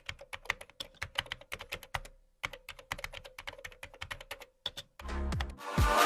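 Rapid, irregular clicking, several clicks a second, with a short pause about two seconds in. Near the end the clicking stops, a brief different noise follows, and music begins.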